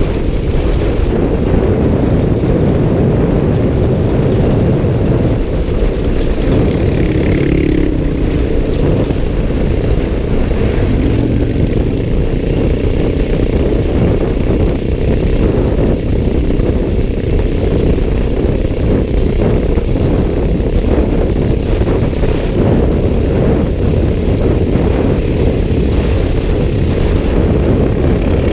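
Motorcycle running on the road under way, with a dense, steady low rumble throughout.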